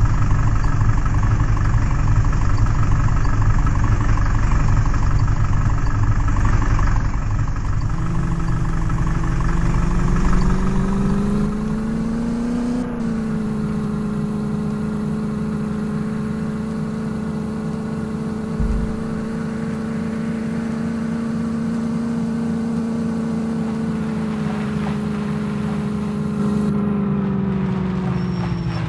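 Tractor diesel engine running with a heavy low rumble, then its pitch climbs about eight seconds in and holds at a steady higher speed, easing off a little near the end.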